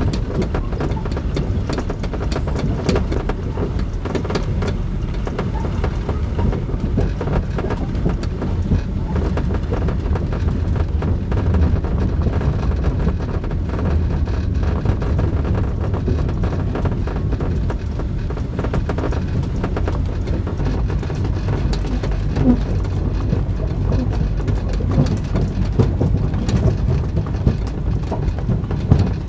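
The Ghan passenger train's carriage running over very rough rail track: a constant low rumble with irregular pounding and clattering knocks, heard from inside a sleeper berth.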